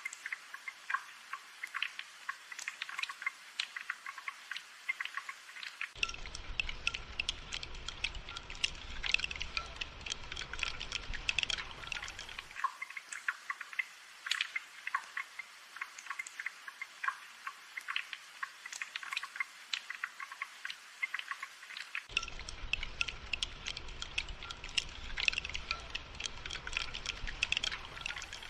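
Gentle rain falling, a dense patter of individual drops. A low rumble joins in about six seconds in for several seconds, then returns near the end.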